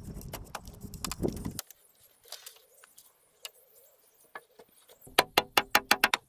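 Quick, sharp knocks on timber at about six a second begin about five seconds in, after a few scattered clicks; these are the sounds of hand joinery on the shelter's wooden frame.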